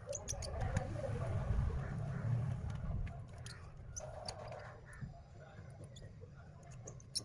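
Small scattered clicks and taps of parts and tools being handled during smartphone reassembly, over a low rumble that is loudest in the first three seconds and then fades.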